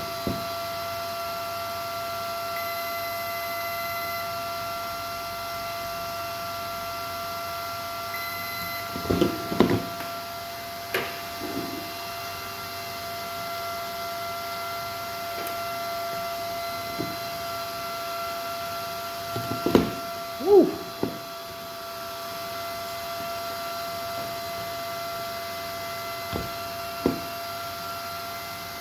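A steady electronic whine of several high tones held at once, with a few sharp clicks and knocks from handling on the bench, the loudest about two thirds of the way in.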